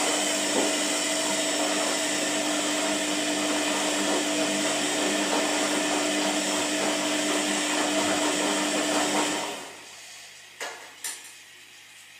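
Washing machine running with a steady whirring hum that winds down and stops about nine and a half seconds in, followed by two short clicks.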